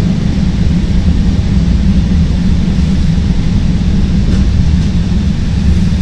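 CTA Green Line rapid-transit train running along elevated track, heard from inside the car: a steady, loud, low rumble of wheels on rails.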